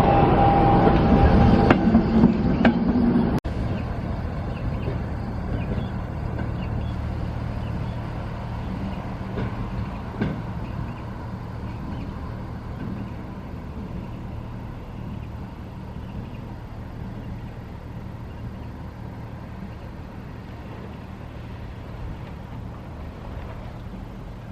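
Class 73 electro-diesel locomotive running on its diesel engine with the train: a steady low engine hum that slowly fades as it draws away. The sound is louder and busier for the first three seconds or so, up to an abrupt cut.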